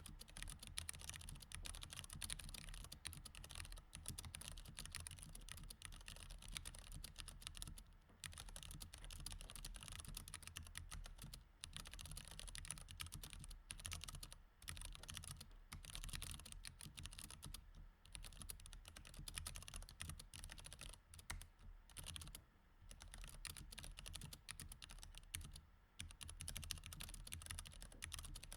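Faint, continuous typing on a mechanical keyboard with Cherry MX Red switches: a fast stream of key clicks, broken by brief pauses every three or four seconds.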